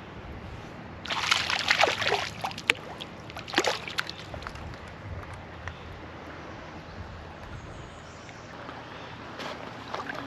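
Water splashing in a creek, in a busy cluster about a second in and a shorter one near four seconds in, over the steady flow of the stream.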